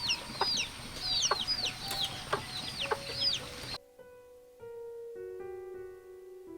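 Chicks peeping: rapid, high, downward-sliding calls several times a second, with a few sharp taps among them. About four seconds in, this cuts off suddenly to soft piano music with slow, held notes.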